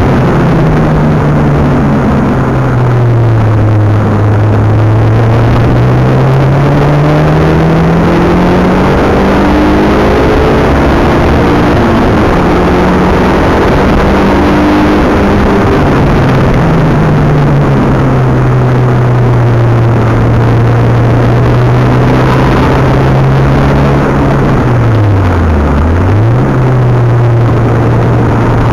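Mitsubishi Galant VR-4 engine heard from inside the cabin under hard track driving: its pitch climbs steadily as the car accelerates, drops abruptly at gear changes, and dips sharply and recovers near the end, over steady tyre and road noise.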